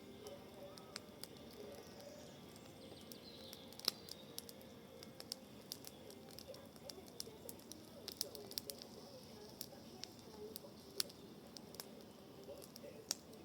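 Wood fire of pruned branches crackling in a fire bowl: irregular sharp pops and snaps, the loudest about four seconds in, around eleven seconds and near the end.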